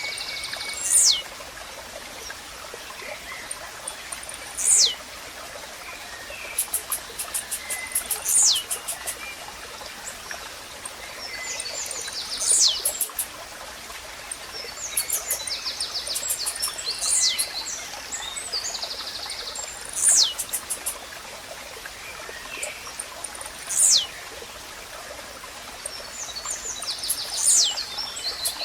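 Blue-black grassquit (tiziu) singing: a short, loud falling note repeated about every four seconds. Other birds chirp between its calls over a steady hiss of running water.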